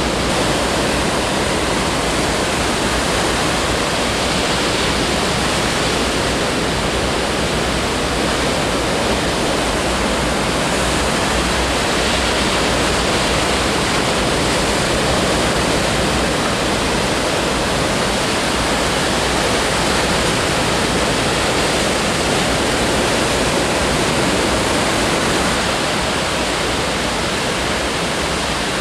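Steady, even rush of surf breaking on the beach, with no distinct wave crashes standing out.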